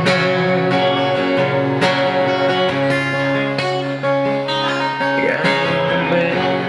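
Acoustic guitar strummed in steady chords, an instrumental passage of a pop ballad between sung lines.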